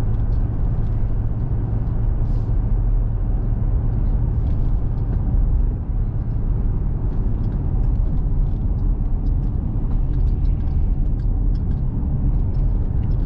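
Steady low rumble of engine and road noise heard inside the cab of a small truck driving along a road.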